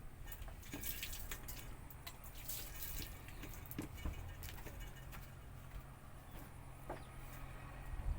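Pet parrots pecking at rice and vegetables, their beaks making scattered light clicks and taps that are busiest in the first few seconds, over a steady low hum.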